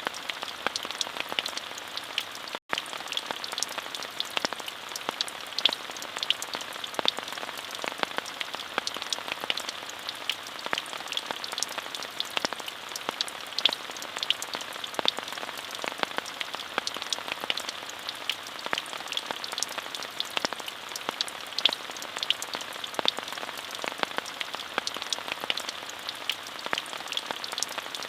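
Steady rain falling, an even hiss dotted with many crisp, close drop ticks. There is a split-second dropout about two and a half seconds in.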